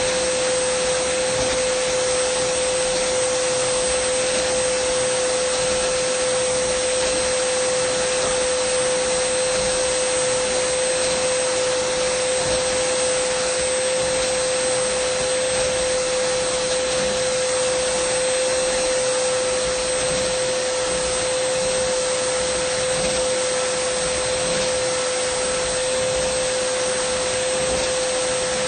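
Dyson vacuum cleaner motor running steadily: a constant whining tone over an even rush of air, with no change in speed.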